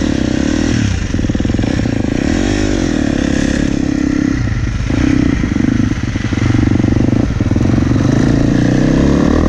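Husqvarna 250F four-stroke single-cylinder dirt bike engine running under load on a motocross track, its note rising and falling with the throttle, with several short dips as the throttle is rolled off.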